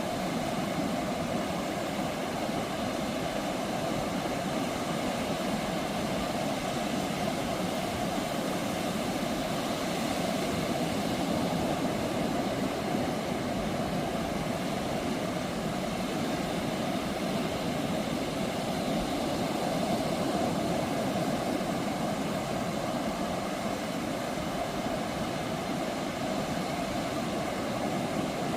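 Ocean surf breaking continuously on a sandy beach, a steady wash of wave noise that swells slightly a couple of times.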